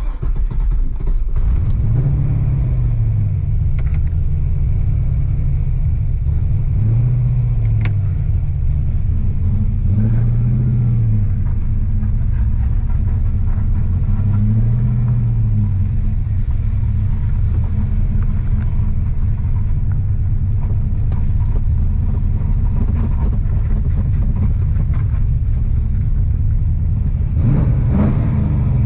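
LS V8 in a BMW E46 running under load through a custom exhaust, a steady deep rumble. About five times the engine pitch swells up and eases back down as the throttle is opened and released.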